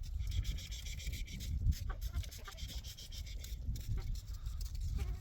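Wind gusting against the microphone: an uneven low rumble that swells and fades, with faint rubbing noise over it.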